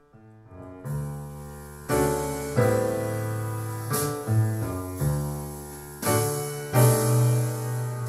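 Piano intro of a slow song played through a JBL Control 28 loudspeaker, with chords struck about once a second over a bass line. It rises from quiet at the start.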